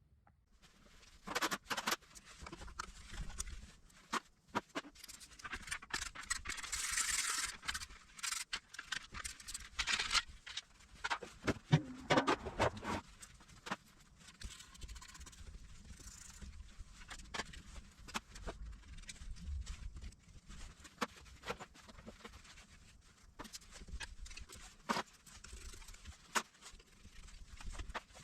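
Hand tools and metal engine parts clinking, knocking and scraping in an irregular clatter, as in an engine being stripped. There is a brief hissing rush about seven seconds in and a busier stretch of clatter around twelve seconds.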